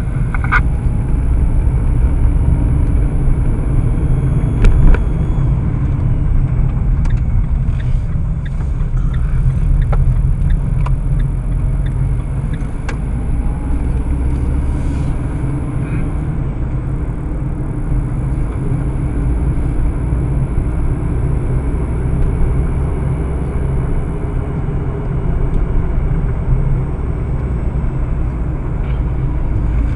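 Road traffic noise: a steady low rumble of vehicles, heavy in the bass, with a few faint clicks.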